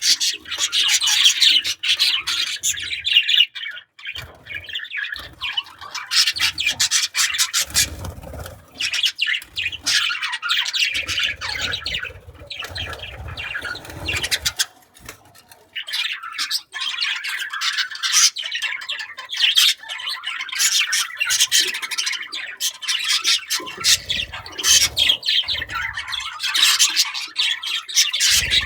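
Pet budgerigars chattering and chirping in rapid, busy warbles, with brief pauses.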